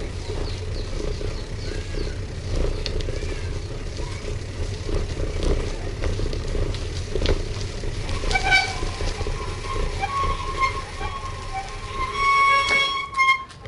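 Motorbike ride: a steady low rumble of engine and wind noise on the microphone. In the second half, music with held, wavering tones comes up over it and grows louder near the end.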